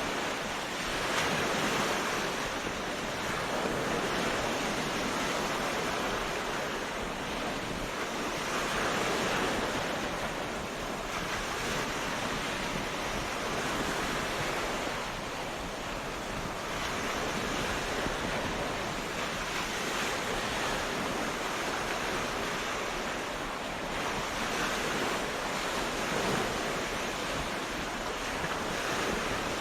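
Ocean waves breaking on a beach, a continuous surf wash that swells and eases every few seconds.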